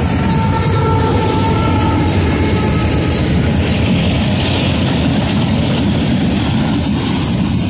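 Loaded freight cars of a passing freight train rolling by close to the track, with a loud, steady rumble of steel wheels on rail. A faint high squeal fades out about three seconds in.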